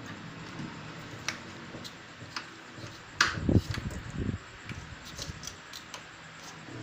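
Scattered small clicks and a louder cluster of knocks about three seconds in, from parts and connectors being handled and fitted while a microwave oven is reassembled for repair, over a steady low hum.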